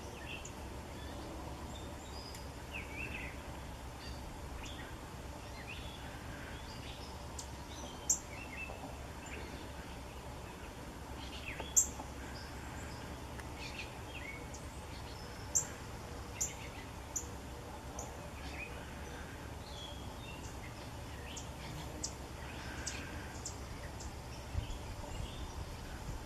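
Several songbirds chirping and calling off and on, with a handful of sharp, high chirps standing out above the rest, over a steady low rumble of outdoor background noise.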